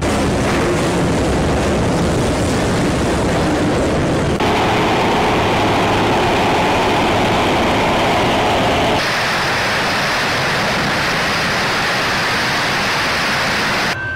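A loud, steady rumbling roar with a hiss over it, in three sections spliced together with abrupt changes about four seconds in and again about nine seconds in.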